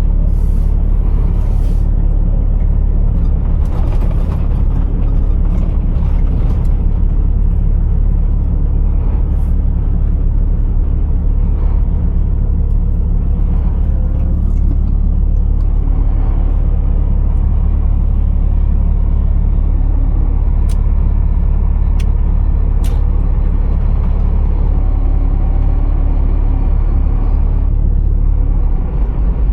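Scania R480 truck's six-cylinder diesel engine running with a steady low rumble. A few faint sharp clicks come about two-thirds through, and the rumble drops slightly near the end.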